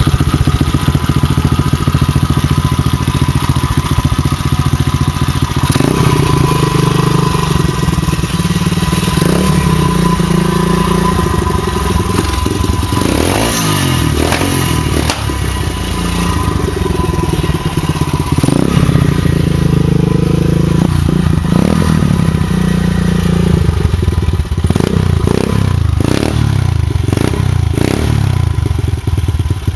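125cc pit bike's single-cylinder four-stroke engine running through an aftermarket performance exhaust, ticking over between repeated throttle blips. There is one longer rev around two-thirds of the way through and a run of quick blips near the end.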